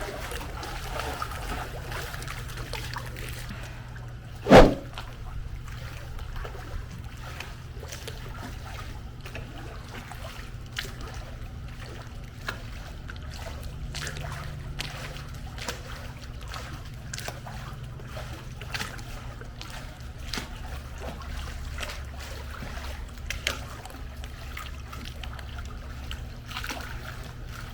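Pool water splashing and trickling in scattered small splashes over a steady low hum, with one loud knock about four and a half seconds in.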